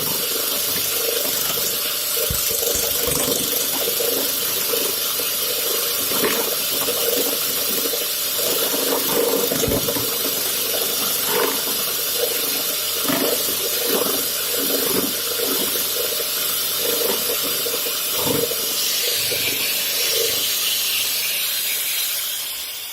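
Woodworking lathe spinning a steel ball while an abrasive stone grinds it: a steady, harsh hiss with irregular scraping catches. The noise starts to die away right at the end.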